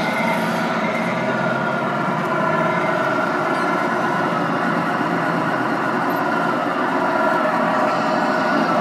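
Engine sound units of 1/14 scale RC trucks playing a steady, idling diesel truck engine through small speakers, with little deep bass.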